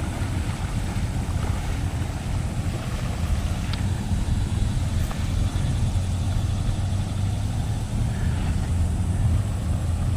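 Vehicle engine running steadily with a low rumble, with wind noise on the microphone.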